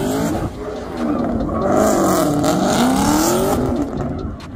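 Car engine revving up and down, its pitch rising and falling several times, with a loud rush of noise in the middle of the revving. The revving dies away near the end.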